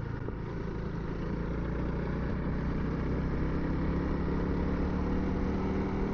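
Honda CRF300L's single-cylinder four-stroke engine running steadily, with wind and road noise, picked up by a helmet-mounted Bluetooth intercom microphone.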